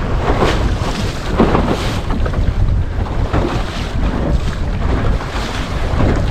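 Wind buffeting the microphone with a heavy low rumble, while water splashes and hisses against a small sailing dinghy's hull in irregular surges as it bounces over waves in gusty wind.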